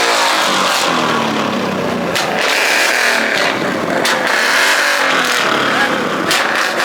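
Car engines revving at a car meet, their pitch rising and falling over a steady background din.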